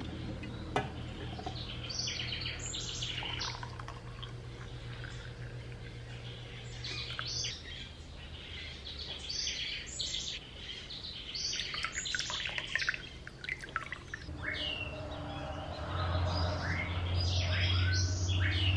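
Birds chirping, many short high calls coming in clusters, over a low steady hum.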